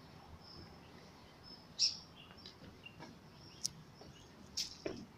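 Birds calling in the trees: a few short, high chirps, the loudest about two seconds in and two sharper ones near the end, over a faint outdoor hush.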